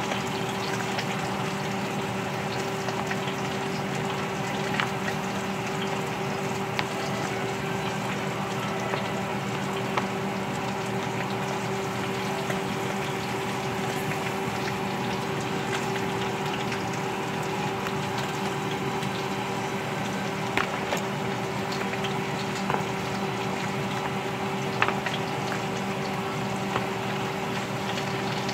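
Flour-coated potato and sweet potato slices frying in shallow oil in a pan: a steady sizzle with scattered small crackles and a few sharper pops, over a steady low hum.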